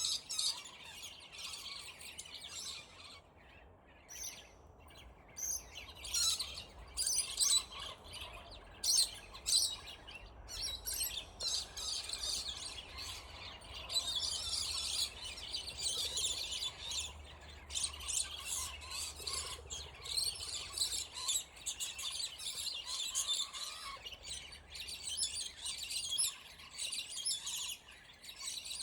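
Scaly-breasted lorikeets calling in rapid, shrill, overlapping chatter, the calls of birds squabbling in a territorial fight. The calling thins briefly a few seconds in and is densest through the middle.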